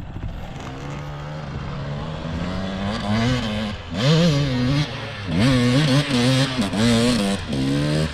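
Dirt bike engine revving under load, its pitch climbing steadily at first. It then goes up and down in repeated throttle bursts, the loudest from about four seconds in, as the rider works the throttle on a slippery hill climb.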